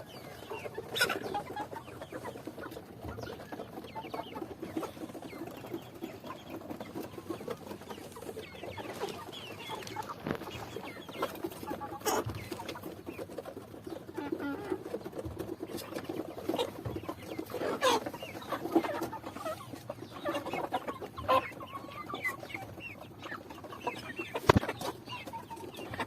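A flock of chickens clucking and calling over one another, with scattered sharp clicks and knocks, the loudest near the end.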